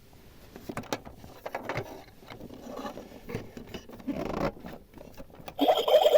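Small objects being handled: irregular scraping and rubbing with light clicks. About five and a half seconds in, a louder, rapidly pulsing buzz starts.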